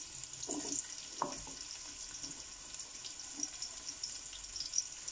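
Chopped onion and whole spices sizzling in hot oil in a pot: a steady frying hiss with small crackles.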